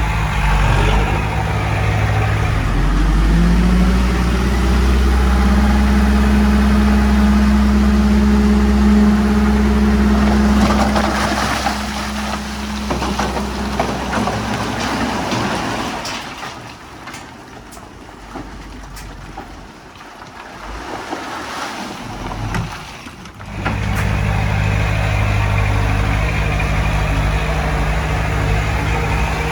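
Heavy diesel engine of earthmoving machinery speeding up and then running steadily under load. About halfway through it drops away to a quieter stretch with scattered clicks and rattles, and loud engine sound returns abruptly near the end.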